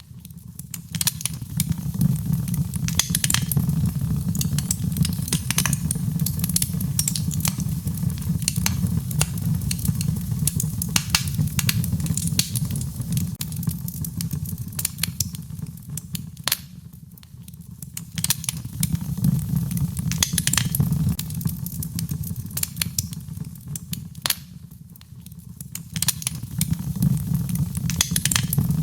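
Wood fire crackling in a fireplace: frequent sharp pops and snaps over a steady low rumble, which eases briefly twice.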